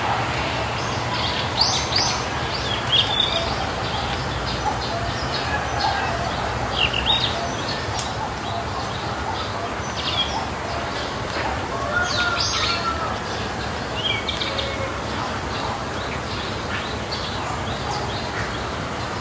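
Birds chirping, short high calls every second or two, over a steady low rumble.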